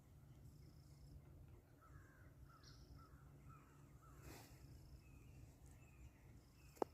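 Faint woodland ambience: a distant bird calls a quick run of short notes, followed by a few fainter chirps. A single sharp click near the end is the loudest sound.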